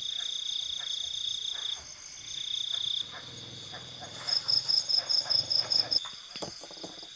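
Insects chirping: a steady high trill with a fast pulsing chirp above it, which changes abruptly about three seconds in to a different, shorter run of rapid chirps. A few light knocks near the end.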